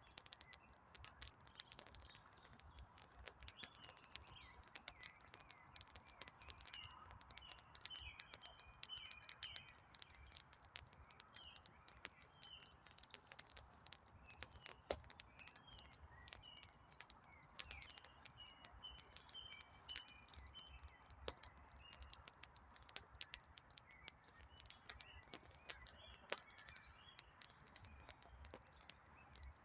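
Wood fire crackling faintly with a steady scatter of small pops and snaps, while small birds chirp in short bursts of notes in the background.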